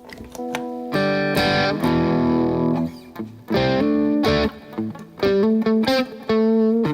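Electric guitar played through an overdrive pedal: a few short picked notes, then a strummed chord left to ring, followed by short chords and held notes with brief stops between them.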